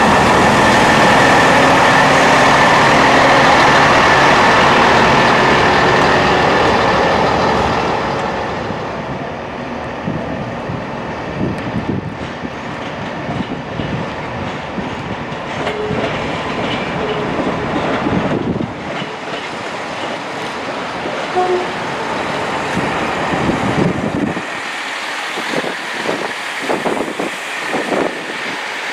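A train running past, loud with a steady high tone for the first several seconds, then fading to a quieter rumble with scattered clicks.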